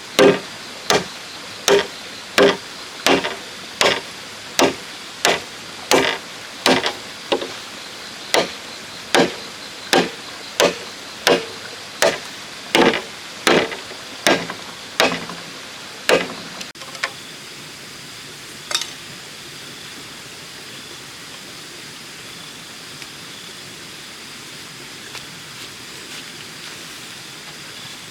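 A tool strikes bamboo at an even pace, about four blows every three seconds, for some twenty blows. The strikes stop about 16 seconds in, leaving a steady hiss with a single click a couple of seconds later.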